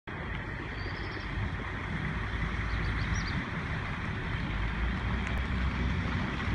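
Steady low rumble with a broad hiss over it, as of a truck running on the road, with no break or change in pitch.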